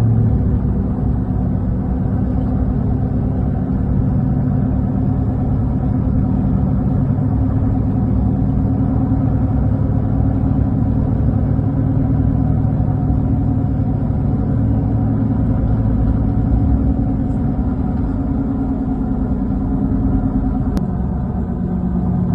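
Truck engine running steadily under way, with its note shifting near the end.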